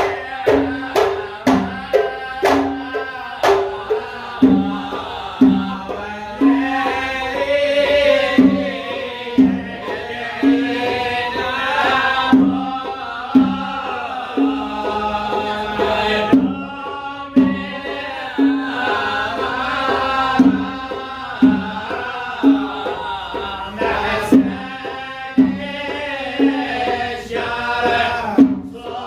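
Live wedding troupe music: hand drums beat a steady rhythm of sharp pitched strokes while voices sing over them. The opening seconds are mostly drum strokes, and the singing fills in after a few seconds.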